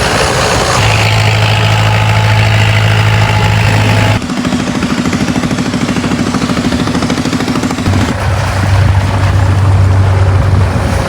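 A loud engine running steadily, its hum changing abruptly about four seconds in and again about eight seconds in.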